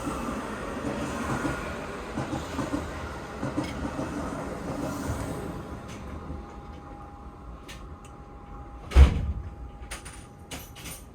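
Rumble of a Keihan 3000-series train that eases off about six seconds in, then a single loud thump about nine seconds in, like a door being shut, followed by a few light clicks.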